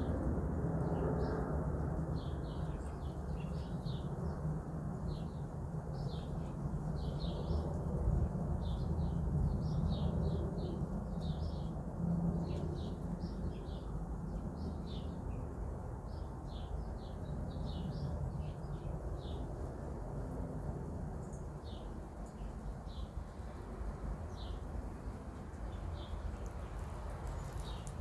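Small birds chirping, many short high calls a few a second, thinning out toward the end, over a steady low rumble.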